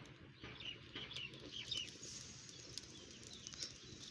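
Faint calls of farmyard birds, chickens among them: a scatter of short chirps and clucks.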